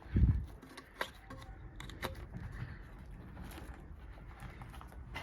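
A single dull, deep thump about a quarter second in, then a few light clicks and taps from work on the outboard motor; the engine does not fire or run.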